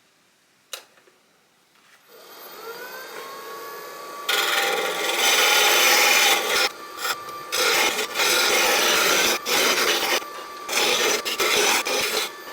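A power tool spins up with a faint rising whine, then works the wooden handle blank in long rough passes broken by short pauses, as when shaping or sanding wood.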